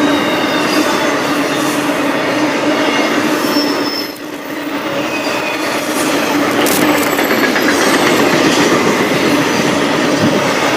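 Norfolk Southern freight train rolling past on the track, its cars and wheels making a steady, loud running noise that dips briefly about four seconds in.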